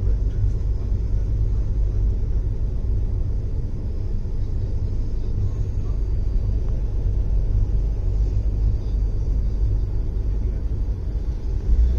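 Steady low rumble of a passenger train running on the rails, heard from inside a moving coach as another train runs alongside.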